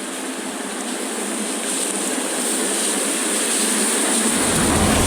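Rushing water flowing into a culvert drain, a steady noise that grows louder. A low rumble joins near the end.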